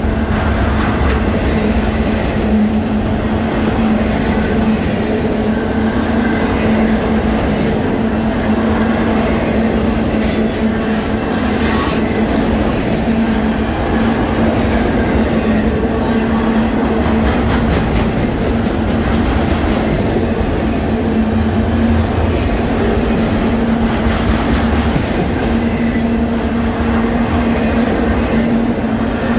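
Freight train of autorack cars rolling past close by: a steady rumble of steel wheels on the rails with a constant low hum and occasional bursts of clicking from the wheels and rail joints.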